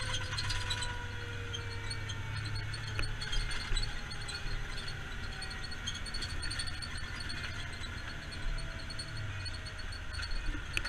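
Fire engine driving, heard from inside the cab: a steady low engine and road rumble with light rattling, and faint tones slowly falling in pitch.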